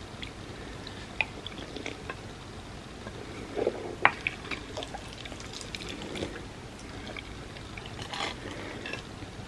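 Close-miked eating of creamy rice pudding: wet, sticky mouth sounds and smacks with scattered small clicks, and one sharp click about four seconds in.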